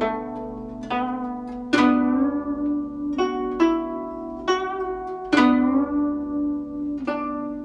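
Guzheng played solo: single plucked notes, each ringing and fading, some bent in pitch after the pluck by left-hand pressing on the string, at a slow practice pace.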